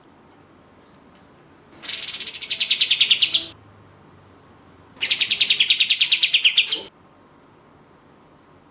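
Kapas tembak (katem) songbird singing two rapid trills, each about a second and a half long. Each trill is a fast string of repeated high notes that falls in pitch toward its end.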